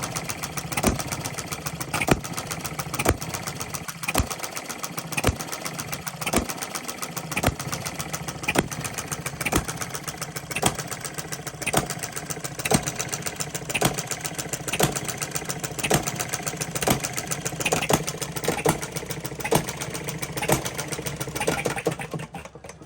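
Small Coles model gasoline engine running on its governor, with sharp firing strokes and a louder one about once a second over a steady mechanical clatter. The owner hears a slight misfire, which he puts down to fuel years past its date. The sound drops away sharply near the end.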